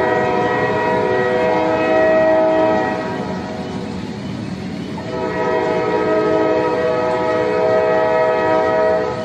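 Train horn sounding two long blasts of a multi-note chord over a steady rumble of the train. The first blast stops about three seconds in, and the second starts about five seconds in and lasts about four seconds.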